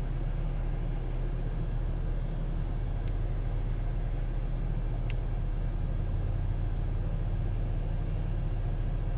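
Steady low rumble of a car heard from inside its cabin, the engine running.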